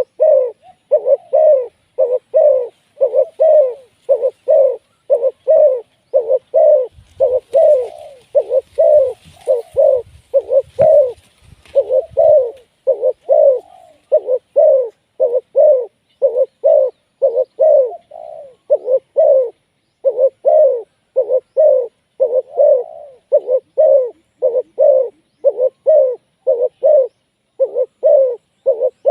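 Spotted doves cooing, a steady run of short low coos about two a second with hardly a break. Some faint rustling and low knocks come in between about seven and twelve seconds in.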